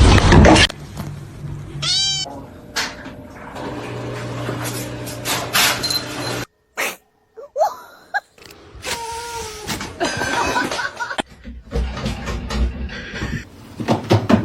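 A cat meowing in short calls, spread over several quick clips with abrupt cuts between them, after a loud noisy sound that cuts off suddenly in the first second.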